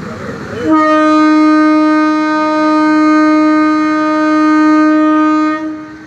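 Train air horn sounding one long, steady blast of about five seconds at a single pitch, loud and close.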